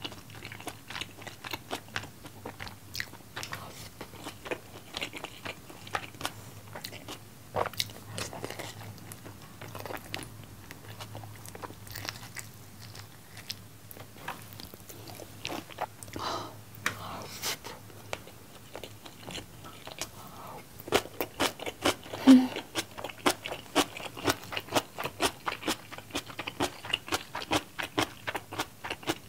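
Close-up chewing and biting of sauce-coated yangnyeom fried chicken, a steady run of small mouth clicks that gets quicker and denser over the last eight seconds.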